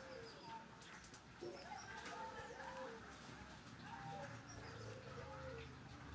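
A small songbird (called a serpo by its keeper) singing faintly in short, scattered chirps and gliding notes, the quick twittering that the keeper calls 'receh'. A low steady hum sits underneath in the second half.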